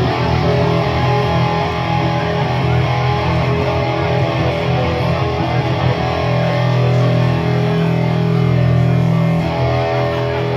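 Loud live music led by guitar, with steady held low notes underneath.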